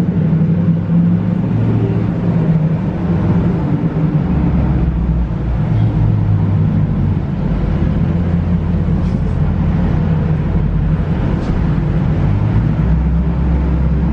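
Dodge Charger Scat Pack's 392 (6.4-litre) HEMI V8 running at a steady low cruise with a deep exhaust drone, its pitch settling lower a few times without any revving.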